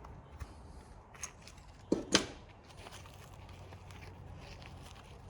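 Light clicks and clatter of small hand tools being handled, with two sharp knocks close together about two seconds in.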